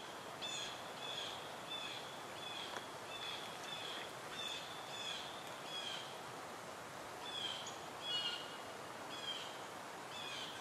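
A songbird repeating one short, high note about twice a second, with a brief pause a little past the middle, over a steady outdoor hiss.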